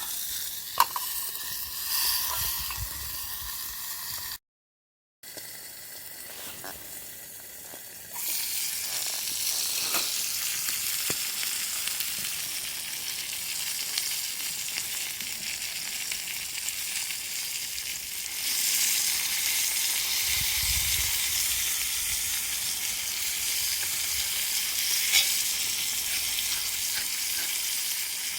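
Food sizzling and frying in a pan, with scattered light clicks. The sound cuts out for under a second about four seconds in, then comes back and grows louder about eight seconds in.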